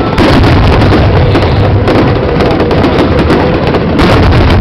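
Fireworks display: a dense, continuous barrage of shell bursts and booms, very loud with no gaps.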